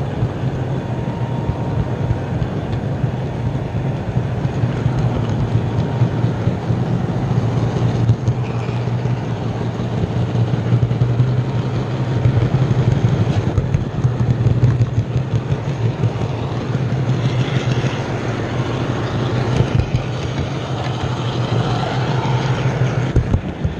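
OO gauge model train running along the track: a steady low hum with a constant fine rattle of wheels on rail.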